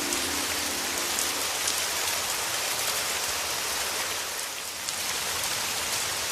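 Heavy rain falling steadily, a dense even hiss of drops with fine patter on top. A low held musical tone fades out about a second in.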